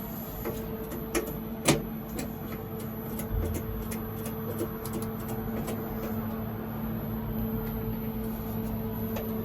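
Inverter running with its cooling fan, a steady hum with a thin high whine above it. Several sharp clicks over it, the loudest about a second and a half in.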